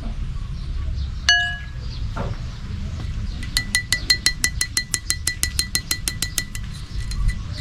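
A single bright ringing clink, like glass or metal being struck, then a fast run of sharp chirping clicks, about eight a second for some three seconds, over a low rumble.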